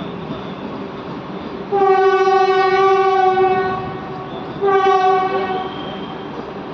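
Train horn sounding twice, a long blast of about two seconds and then a shorter one, over the steady running noise of a passing train.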